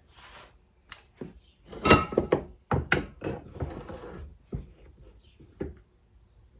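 A series of knocks and clatters from fork parts and tools being handled and set down on a workbench, the loudest about two seconds in, with rustling between.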